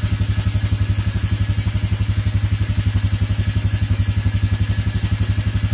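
Vehicle engine idling cold with a fast, even pulsing beat, still hesitant and cranky as it warms up after a cold start.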